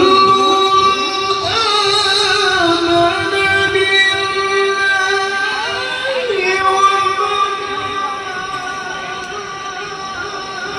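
Quran recitation by a male qari in the melodic tilawah style: one long drawn-out high note held at nearly one pitch, with small ornamental turns and a slight step down about six seconds in.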